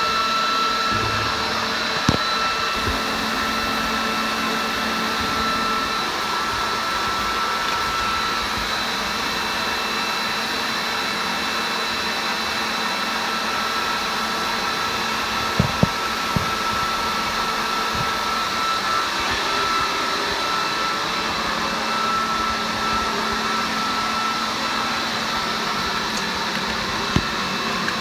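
Leaf blower running steadily with a high whine, blowing air into a car's exhaust system to pressurise it so a leak shows up. A few brief clicks sound about two seconds in and again around sixteen seconds in.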